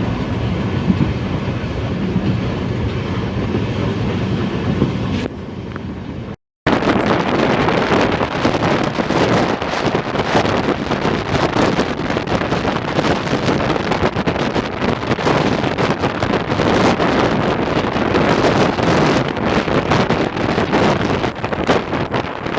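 Express passenger train running, heard from on board: steady wheel and running noise for about five seconds. Then, after a brief cut, heavy wind buffeting the microphone over the train's running noise.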